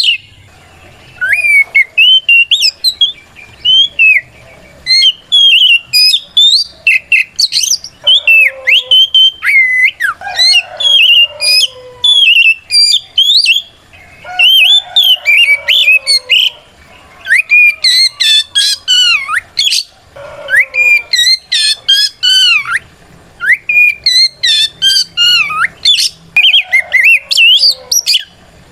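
Oriental magpie-robin (kacer) giving its loud, full challenge song that calls out a rival: rapid runs of clear whistled notes sliding up and down, in phrases broken by short pauses.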